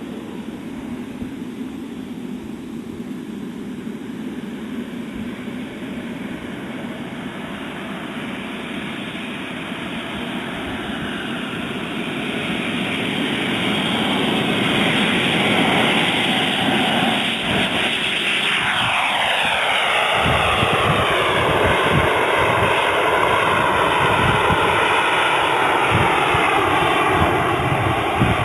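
Engines of a radio-controlled Airbus A380 model running, growing steadily louder as it approaches, with a falling pitch about two-thirds through as it passes close, then a loud steady rush.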